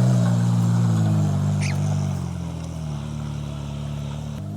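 Off-road Jeep engine running at moderate revs, the note easing down and settling lower about halfway through. There is a brief high squeak under two seconds in.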